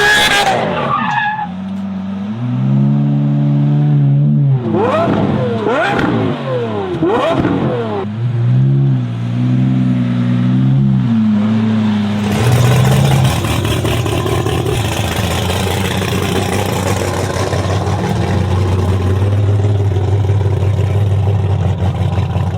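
Car engine revving up and down in steps, then running with a loud, rough rush of noise from about halfway through.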